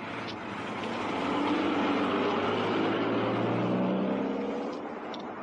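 Car engine as the car drives off. The sound swells over the first second or so, holds steady, then eases off a little after about four seconds.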